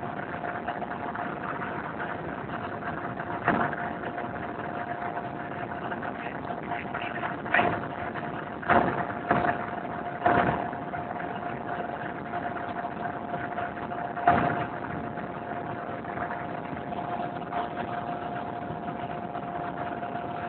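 Helicopter engine and rotor noise heard from inside the cabin: a steady running noise with one constant tone through it. A handful of sudden loud knocks come in the middle stretch.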